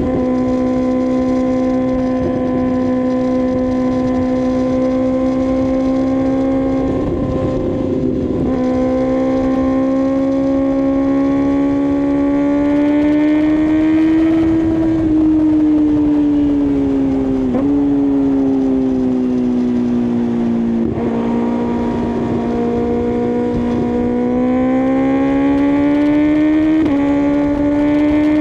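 2024 Kawasaki ZX-6R's inline-four engine running under way. Its pitch climbs and eases off slowly, with several brief breaks and steps in pitch at the gear changes.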